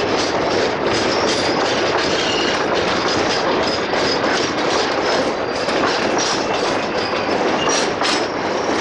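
Container flat wagons of a long freight train rolling past: a steady loud rumble of steel wheels on rail, with frequent clacks as the wheels cross rail joints and a faint high squeal now and then.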